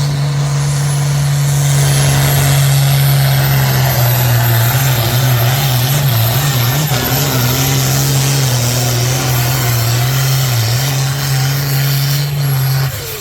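Competition pulling vehicle's engine running hard at high, steady revs down the track, its pitch wavering briefly a few seconds in, with a thin high whine slowly rising above it. It stops abruptly near the end.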